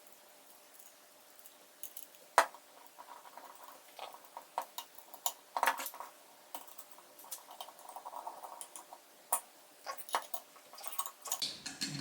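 3D-printed plastic parts and aluminum housing pieces handled and fitted together during assembly: scattered clicks and knocks with light rattling between them, the loudest a sharp knock about two and a half seconds in.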